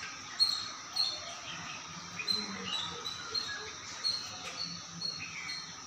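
Small birds chirping: short high chirps repeating every half second or so, over a steady high hiss.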